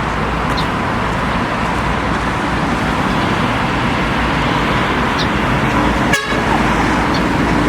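Steady city traffic noise from passing road vehicles, with a short break about six seconds in.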